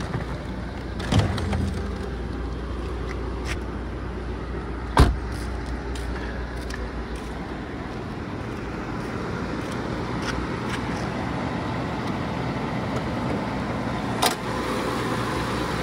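Mercedes-Benz CL65 AMG's twin-turbo V12 idling steadily, shortly after a push-button start. A few knocks sound over it; the loudest, about five seconds in, is a car door being shut, and a lighter one comes near the end.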